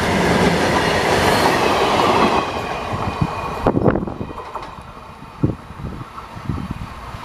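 Freight train's covered goods wagons rolling past close by, a loud steady rumble and clatter of wheels on rail. About two and a half seconds in it drops to a much quieter rumble as the train's tail moves away, with a few scattered wheel clicks.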